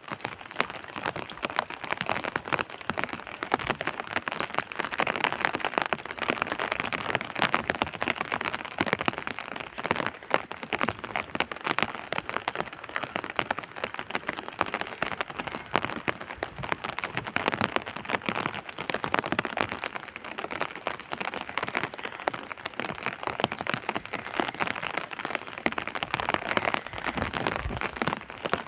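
Steady rain falling, a dense continuous stream of small drop hits on a surface.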